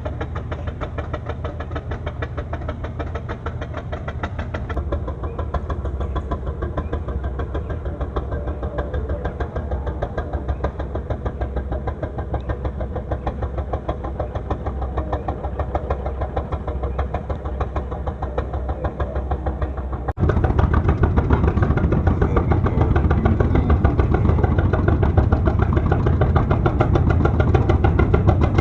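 Fishing boat engine running steadily with a fast, even chugging. About two-thirds of the way through it suddenly becomes louder and fuller.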